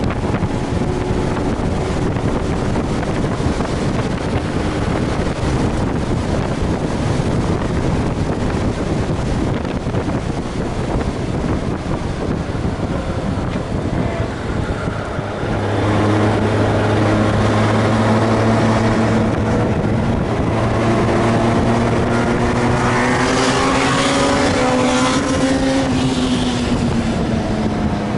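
Honda Gold Wing GL1500's flat-six engine running under way, with heavy wind rush on the helmet microphone. About halfway through, the engine note comes up steady and louder, then rises and falls in pitch near the end.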